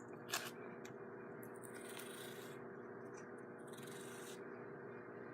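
Duct tape being pulled off the roll, in two pulls of about a second each, with a short crinkle just before. A faint steady hum runs underneath.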